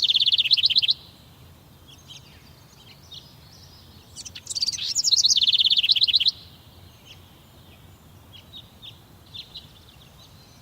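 A songbird singing: each song is a few varied notes that run into a fast, even trill and stop abruptly. One song ends about a second in and another comes from about four to six seconds in, with soft scattered chirps between.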